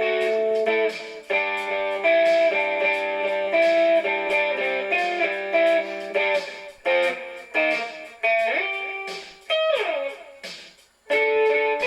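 Solo electric guitar playing picked notes and chords. About ten seconds in, the notes slide down in pitch; after a brief gap the playing picks up again.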